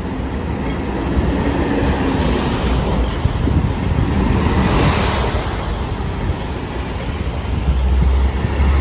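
Road traffic: a steady rumble of engines and tyres, with a vehicle passing about four to five seconds in and a deep engine drone growing louder near the end.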